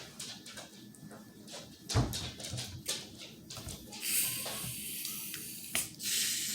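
Shaken soda bottle being eased open: a few handling clicks, then about four seconds in a hiss of escaping carbonation, a click, and the hiss again, fading.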